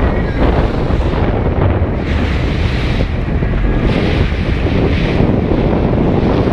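Wind buffeting the microphone on a sailing yacht under way in a fresh breeze, over a steady rush of water along the hull, with two surges of hissing water or spray, about two seconds in and again around four to five seconds in.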